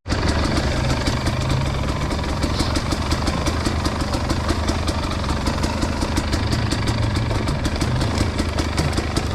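Dirt bike engine running steadily at low revs, with a fast, even pulsing.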